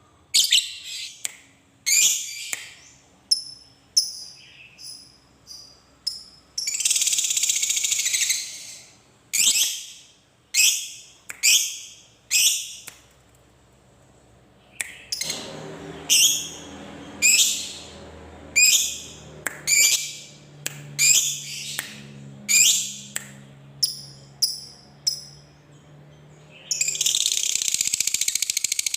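Lovebird calling with sharp, high chirps about once a second. Twice it breaks into a dense rapid chatter, the 'ngekek' long song: briefly a few seconds in, and again steadily near the end.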